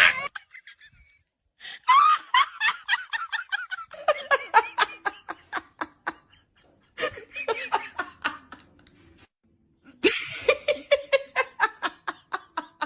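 A person laughing hard in four bouts of rapid, breathy ha-ha pulses, each bout trailing off before the next begins.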